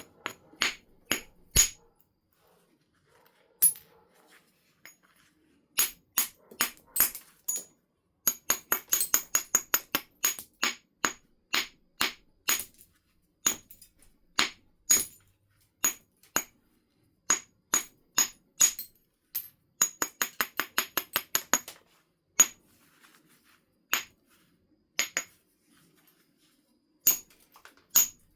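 Flint being knapped: sharp, clicking strikes of a knapping tool on the stone. Some come singly, and some come in quick runs of several a second.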